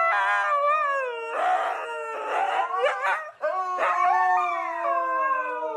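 A dog howling: two long, drawn-out howls that each slide slowly down in pitch, the first turning rougher partway through, with a short break about three and a half seconds in.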